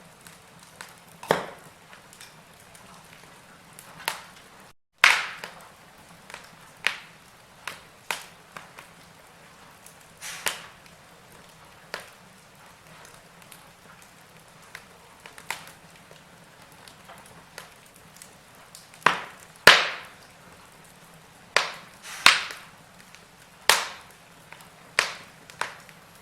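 Wood fire in a fireplace crackling: burning logs give off irregular sharp pops and snaps over a faint steady hiss, with a cluster of louder pops about twenty seconds in. The sound cuts out for an instant about five seconds in.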